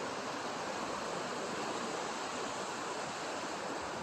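Steady rushing noise of ocean surf, even and unbroken with no distinct events.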